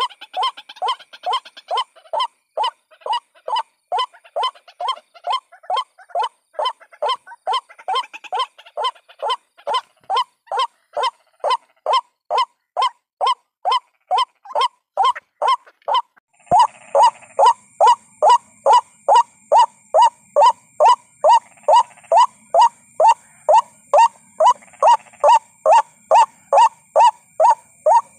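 White-breasted waterhen calling a rapid, monotonous series of harsh 'kwak' notes, about two a second, as a recorded bird-trapping lure call. About halfway through the notes get louder and a steady high whine comes in underneath, as at a splice between recordings.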